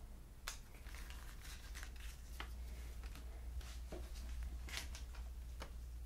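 Trading cards being handled: short, scattered rustles and light clicks of card stock and plastic sleeves, over a steady low hum.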